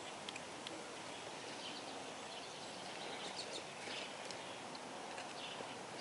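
Outdoor background hiss with a few faint bird chirps scattered through it.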